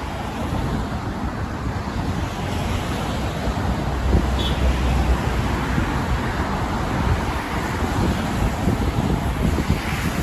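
Wind gusting on the microphone over a steady hiss of road traffic, with a heavier low rumble about four seconds in.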